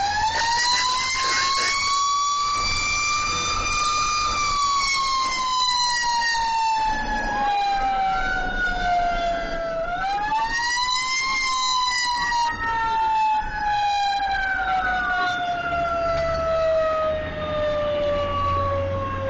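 Fire truck siren wailing: it climbs over about four seconds, sinks slowly, climbs briefly again about ten seconds in and then sinks slowly for the rest, with a fainter second wailing tone crossing it in the middle. A low engine and road rumble runs underneath.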